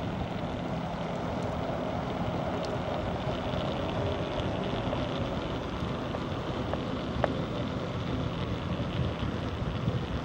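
Steady rush of wind on the microphone and road noise from a moving bicycle, with a few faint clicks.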